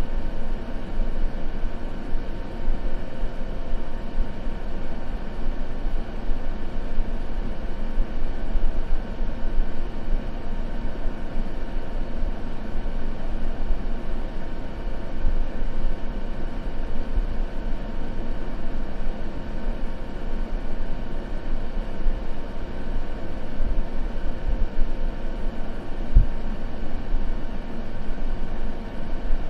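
Steady white noise with a deep, rumbling tone and its treble cut off, unchanging throughout. A single faint low thump near the end.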